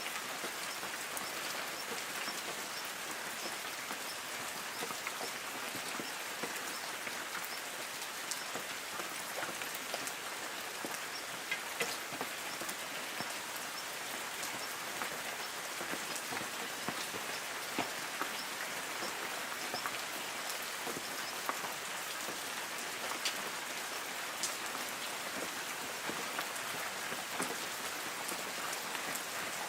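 Light rain falling on forest trees: a steady hiss of rain with many separate drops ticking on leaves.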